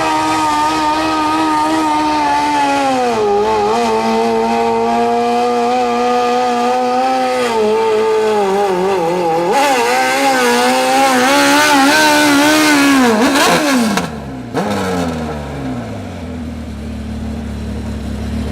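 Modified lawn pulling tractor with a Suzuki 1200 motorcycle engine running at high revs under load. The pitch dips and climbs a few times, then falls away sharply about 14 seconds in and settles to a low, steady running note.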